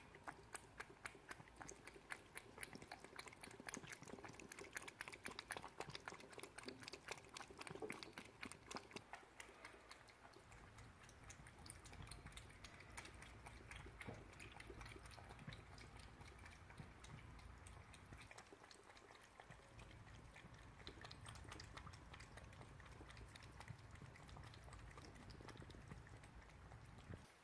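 Cat licking a Churu lickable puree treat: rapid wet tongue clicks for the first ten seconds or so, then softer and sparser over a faint low rumble.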